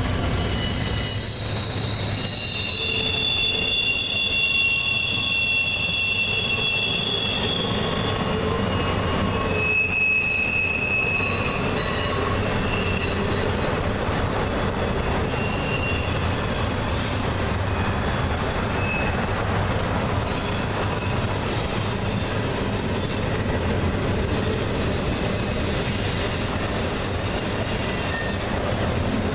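Freight train cars rolling past, with a steady rumble of wheels on rail. Wheel flanges squeal in long high tones, strongest in the first half and coming only in short squeals later.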